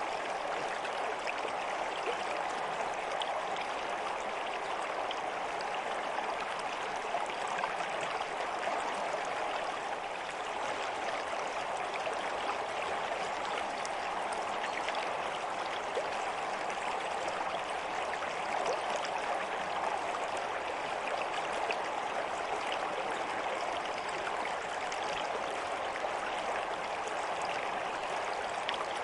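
Water flowing in a stream: a steady, even rush with small splashes scattered through it.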